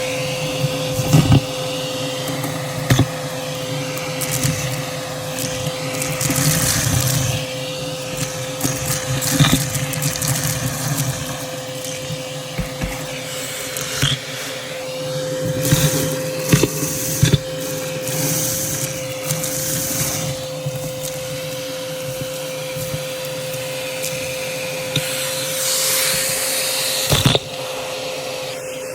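Vacuum cleaner running with its dusting brush attachment: a steady motor whine under crunching and scattered clicks as debris is sucked up. A sharp knock comes near the end, after which it runs more evenly.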